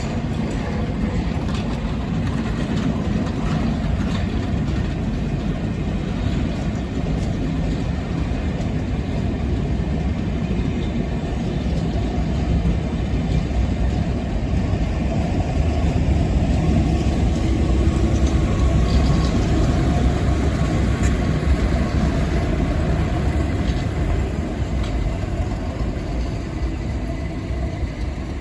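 Class 37 diesel locomotive's English Electric V12 engine running with a steady low rumble, growing louder towards the middle and easing off again near the end.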